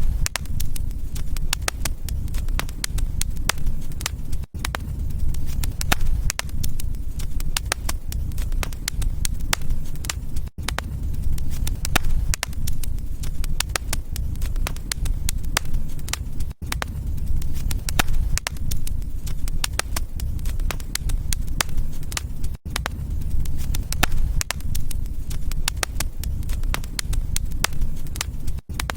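Wood fire burning in a fireplace: dense crackling and sharp pops over a low, steady rumble, with a brief break in the sound about every six seconds.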